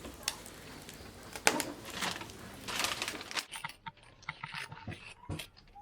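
Scrapes and light clicks of small objects being handled. From about halfway it is quieter, with only scattered small clicks.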